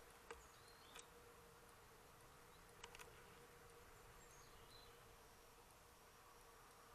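Quiet outdoor ambience: a faint steady hum throughout, a few short clicks in the first three seconds, and faint, thin bird chirps.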